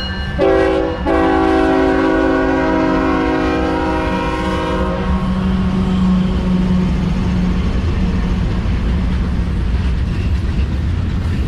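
Diesel freight locomotive's multi-chime air horn sounding a short blast and then a long one of about four seconds, over the steady rumble of the locomotives' engines. The engine drone carries on after the horn stops.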